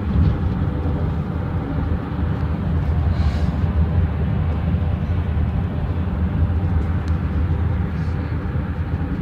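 Steady rumble of a car driving on a highway, its tyres running on the pavement.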